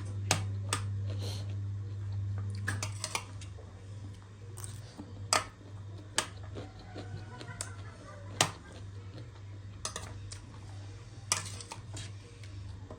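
Eating at a table: sharp, scattered clicks and clinks of a utensil on a dish and the crunch of pani puri shells, a second or few apart, over a steady low hum.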